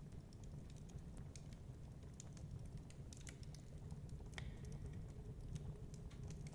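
Wood fire crackling with irregular small pops and one sharper crack about four seconds in, over a low, steady rumble of storm wind.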